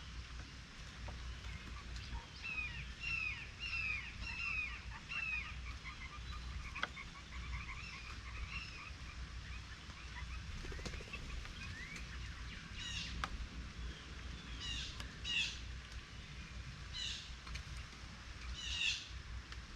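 Wild songbirds singing and calling: a quick run of falling chirped notes in the first few seconds, scattered chirps, then several short harsh, raspy calls in the second half, over a steady low rumble.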